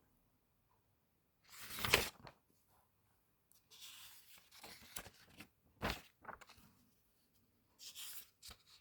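Paper pages of a comic book being handled and turned by hand: several separate rustles and slides of paper, the loudest about two seconds in.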